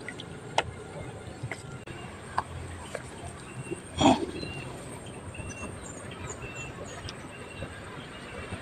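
A bird calling, short high notes of a single pitch repeated a little more than once a second, over a faint background with a few light clicks. A brief louder sound comes about four seconds in.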